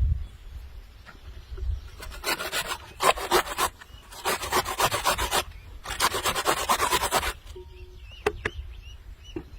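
Three rapid rasping bursts, each lasting about a second, with short pauses between them, followed near the end by faint short chirps.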